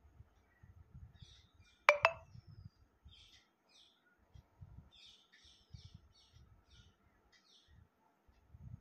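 Small birds chirping repeatedly in short high calls. About two seconds in comes one sudden sharp sound with a brief ring, the loudest thing heard.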